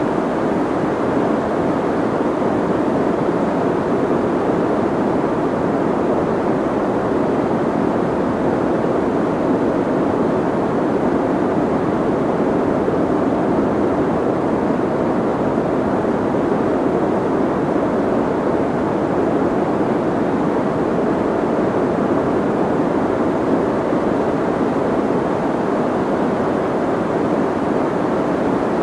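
Soft white noise: a steady, unchanging rushing noise, muffled, with most of its energy low to mid and little treble.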